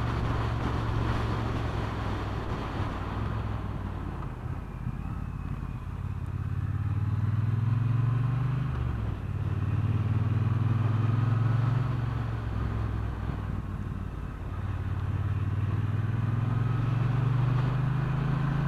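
Motorcycle engine under way, its pitch climbing as it accelerates and dropping sharply at gear changes, about twice, before climbing again.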